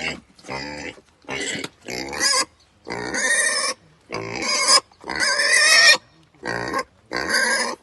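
Pig calling: about eight short loud calls in a row, each under a second, with brief pauses between them.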